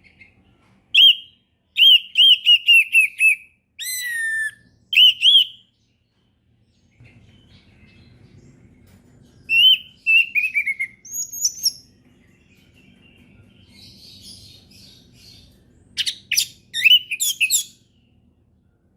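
Orange-headed thrush singing in bouts of clear whistled phrases, some made of quick runs of repeated notes, with a long pause in the middle and a fast burst near the end. A faint low rumble runs underneath in the second half.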